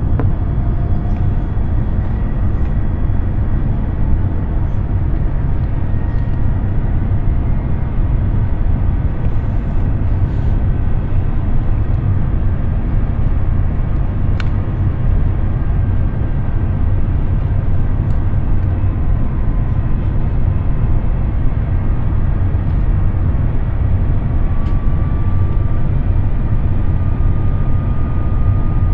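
Steady cabin noise of an Airbus A350-900 in flight: a constant low rumble of airflow and its Rolls-Royce Trent XWB engines, with faint steady whine tones.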